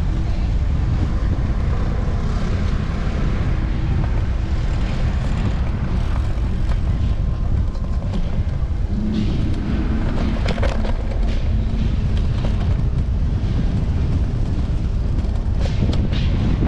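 Steady low wind rumble and road noise from an electric scooter being ridden, picked up by a camera mounted on its handlebars, with a few sharp clicks and knocks in the second half.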